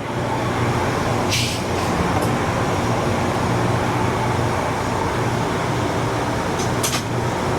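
A steady, even drone with a low hum, broken by a sharp clink about a second and a half in and another short clink near the end.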